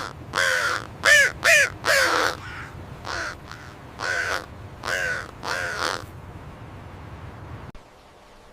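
A bird cawing repeatedly: about nine short, harsh caws over the first six seconds, the loudest a quick group around one to two seconds in, then the calling stops.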